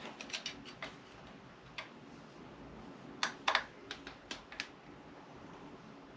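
Irregular light clicks and taps from hands and small tools working on an RC car, the loudest a couple of sharp clicks a little past halfway.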